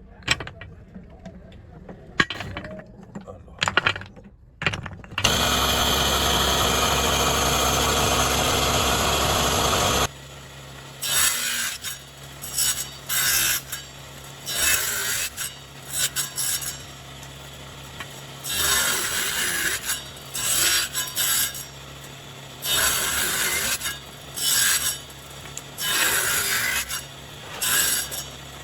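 Power tool working animal bone: scattered clicks, then a machine running steadily for about five seconds before cutting off. After that, repeated short rasping strokes, about one every second or two.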